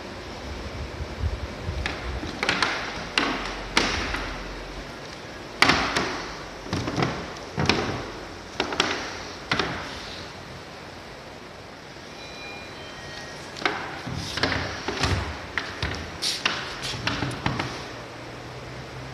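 A run of sharp knocks and thuds, irregularly spaced, with a quieter stretch about halfway through.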